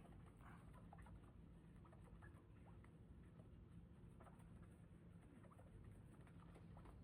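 Near silence: faint background hum with a few scattered, barely audible ticks.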